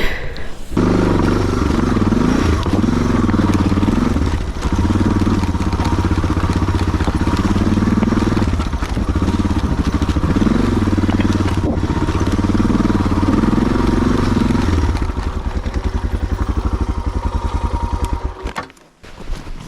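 Single-cylinder Suzuki DR650 dual-sport motorcycle engine running close by at low speed, its revs rising and falling unevenly. It comes in abruptly under a second in, settles to a slower thumping about fifteen seconds in, and falls away shortly before the end.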